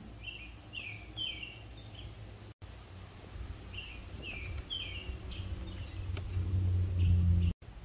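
A songbird repeating short, quick falling chirps in two runs of a second or so each, over a steady low rumble that swells near the end.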